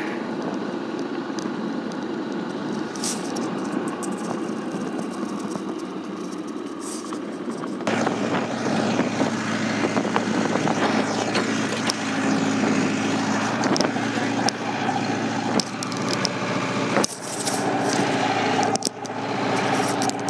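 A motor vehicle running on the move, its engine hum and road noise heard from on board. The engine note grows louder and steadier about eight seconds in.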